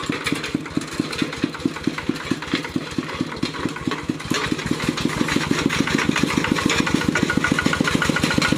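Kubota RT120 single-cylinder diesel engine on a walking tractor, running with an even beat of about seven pulses a second. About halfway through it speeds up and gets a little louder.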